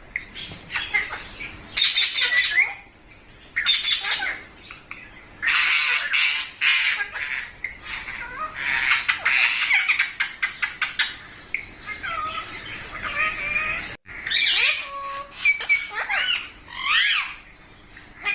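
Indian ringneck parakeets squawking in repeated harsh calls. Between them come short rising and falling whistled notes, mostly in the second half.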